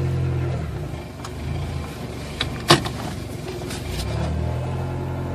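Car engine idling just after a cold start, heard from inside the cabin; its idle note changes about a second in and again near the end. A few sharp clicks sound over it, the loudest a little before the three-second mark.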